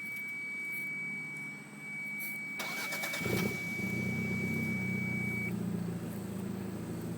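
Toyota MR2 Turbo's turbocharged four-cylinder engine cranking briefly and catching about three seconds in, then idling steadily through a Magnaflow exhaust. It is picked up by an iPhone headset microphone. A thin steady high beep sounds from the start until about five and a half seconds in.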